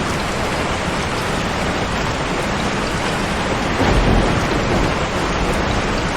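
Steady heavy rain, with a low rumble of thunder swelling about four seconds in and fading over the next second or so.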